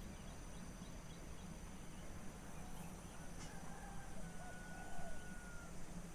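Faint bird calls over a steady rural background of insect hum. About halfway through comes one long, even whistled note, with a few short calls around it.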